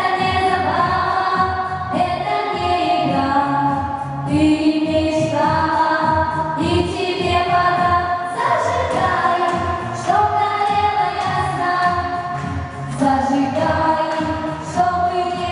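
A song: voices singing a melody in long held notes over instrumental backing.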